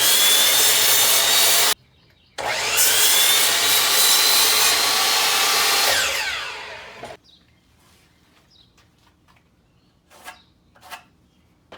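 Electric power saw cutting wood lumber in two runs. The second starts with the motor's rising whine and winds down about six to seven seconds in. Light knocks follow near the end.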